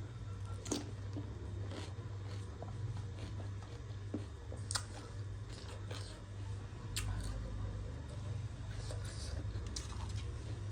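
Close-miked chewing and crunching of a crisp street snack, with irregular crisp crunches as it is bitten and chewed, over a steady low hum.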